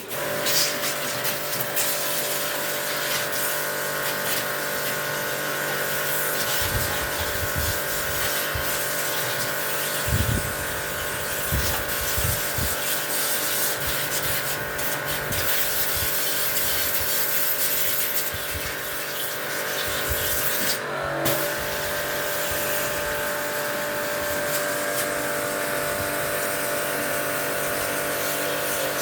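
An electric motor switches on abruptly and runs steadily, with a humming whine and a strong hiss, as from a pump or blower used in servicing a window air conditioner. The hiss cuts out briefly about two-thirds of the way through while the motor hum carries on.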